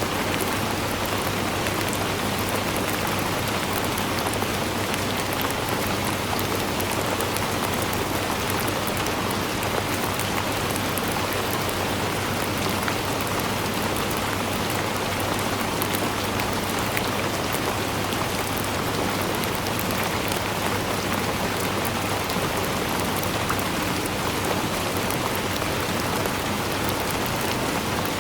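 Steady, even rainfall: a dense hiss of rain with many small, sharp drop ticks throughout.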